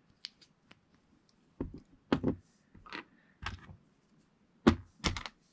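Lego pieces clicking and knocking as a small plastic hub is worked into a rubber tire: a string of irregular light plastic clicks and knocks, louder in the second half.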